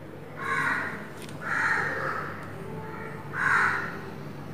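A bird calling three times, each call short and harsh and about half a second long, unevenly spaced.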